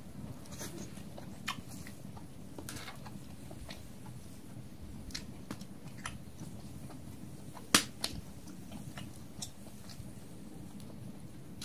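Wood fire of not-fully-dried firewood burning, crackling with scattered sharp pops over a low steady rumble, and one loud pop a little over halfway through.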